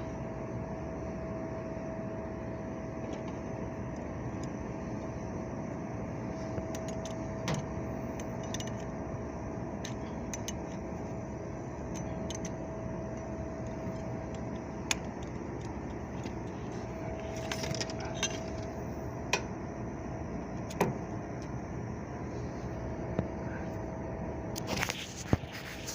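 Steady mechanical hum carrying a thin steady tone that drops out now and then, with scattered sharp metallic clicks and a short jangle of metal about two-thirds of the way through and a louder one near the end.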